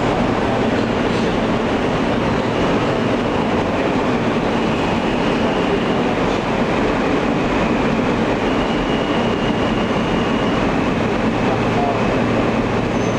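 Alstom R160A subway car running through the tunnel, heard from inside the car: a steady rumble of wheels on rails, with a faint high whine that comes and goes.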